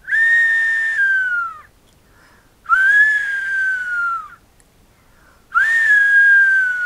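Two-finger whistle imitating a little owl's call: three long, breathy whistled notes, each rising quickly and then sliding slowly down in pitch, with about a second between them.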